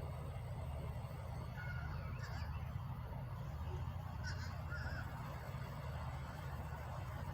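Short bird calls, a few brief chirps about a second and a half in and again around four to five seconds in, over a steady low rumble.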